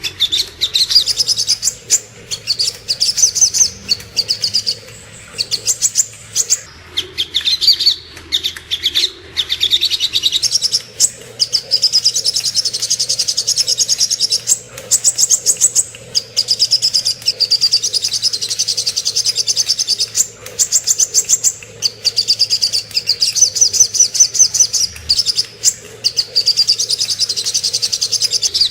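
Little spiderhunter (sogok ontong) singing in long runs of rapid, sharp high chirps, broken every few seconds by short pauses.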